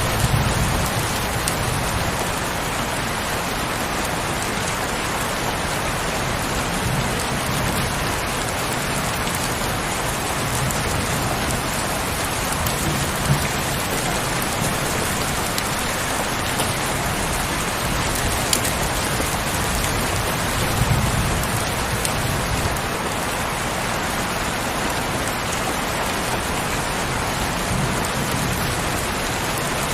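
Heavy rain falling steadily in a dense, even hiss, with a few brief low rumbles swelling up through it.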